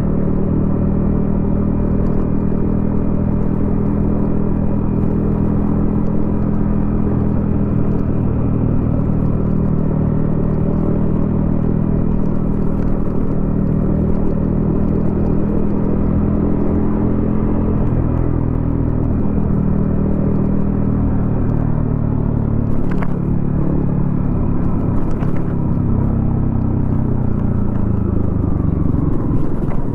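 Yamaha XSR155's single-cylinder engine running through a DIY exhaust while riding, first at steady revs, then dropping in pitch through the last third as the bike slows.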